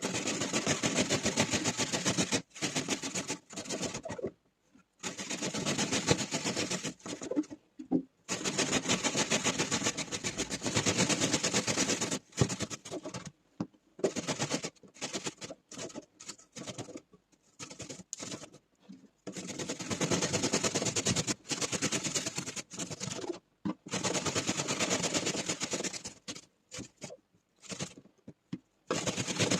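Rapid, rhythmic strokes of hand work with a kitchen utensil, in runs of a few seconds broken by short pauses.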